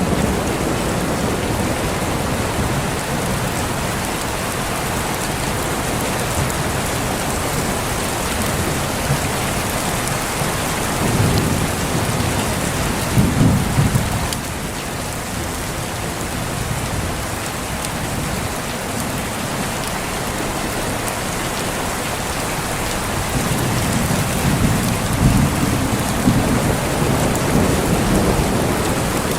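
Heavy, steady rain with thunder rumbling twice: a roll a little over ten seconds in, and another longer one from about two-thirds of the way through to near the end.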